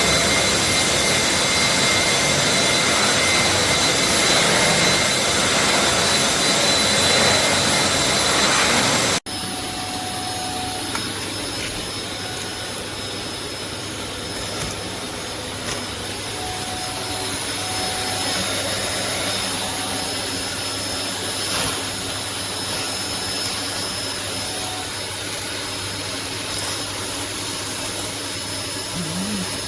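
Wet-and-dry vacuum cleaner motor running steadily with a high whine. About nine seconds in the sound cuts off abruptly and is replaced by a quieter, steady running sound.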